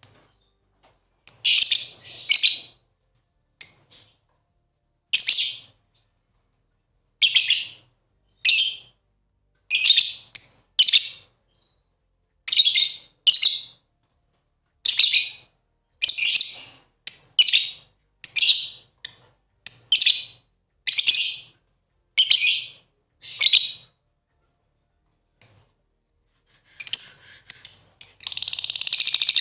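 Lovebirds chirping: a string of short, high-pitched chirps about once a second with brief silences between, turning into continuous chattering near the end.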